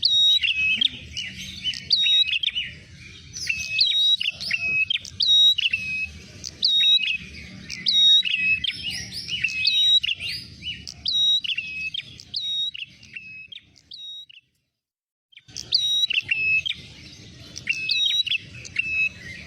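Rapid, busy chirping of prenjak merah (red prinia) used as a trapping lure: short sharp hooked notes that alternate between two pitches, several a second, over a faint low hum. The sound cuts out for about a second near the three-quarter mark, then the chirping resumes.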